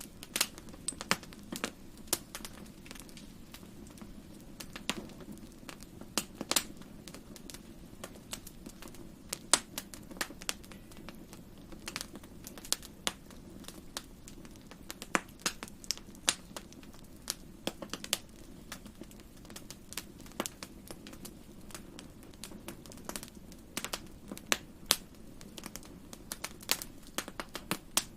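Fire crackling in a fireplace: irregular sharp pops and snaps, several a second at times, over a steady low rumble of the flames.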